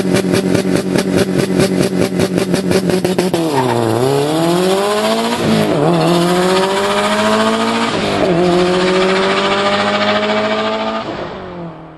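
Subaru Impreza's turbocharged boxer engine held on a 2-step launch limiter, popping and stuttering at a fixed rev several times a second. About three seconds in it launches: the revs dip, then climb hard through two quick upshifts, and the engine fades as the car pulls away.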